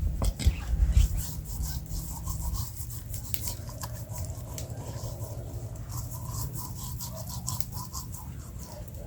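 Firewood crackling in an open campfire: a steady run of irregular sharp pops and snaps. A heavy low rumble of handling or knocking fills the first two or three seconds.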